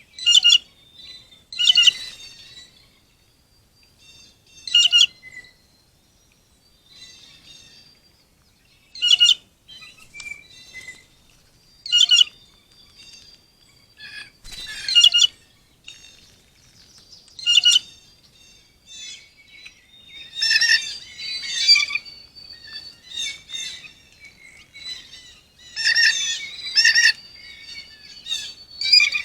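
Wild birds calling: loud, short, high chirps every two or three seconds, with a faint thin held note between them. The calls become busier and overlap near the end.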